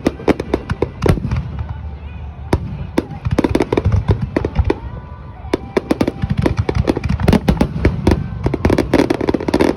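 Aerial fireworks display in a rapid barrage: many sharp bangs and crackles in quick succession, densest in the second half.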